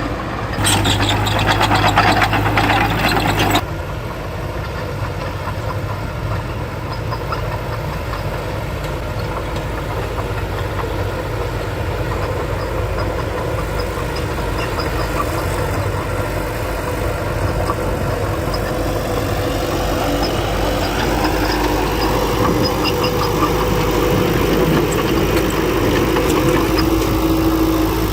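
Diesel engine of heavy earthmoving machinery running steadily, with its pitch rising in the last several seconds as it speeds up. A louder sustained sound lasts about three seconds just after the start.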